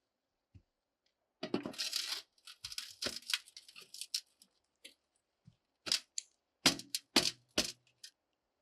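Close handling noises: a short burst of crackly rustling, like something being torn or crumpled, then scattered rustles and several sharp clicks and knocks in the last few seconds.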